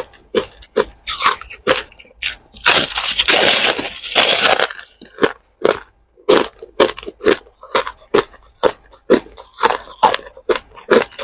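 Hard ice cubes being bitten and chewed close to the microphone: a run of sharp crunches, about two or three a second, with a longer stretch of continuous crunching about three seconds in.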